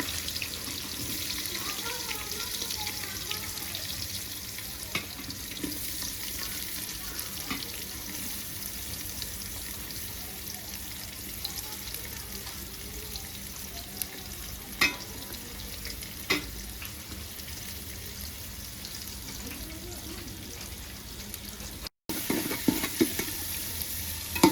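Onions and tomatoes frying in hot oil in a pan, with a steady sizzle while they are stirred with a spoon. Two sharp clinks of the spoon against the pan come about two-thirds of the way in.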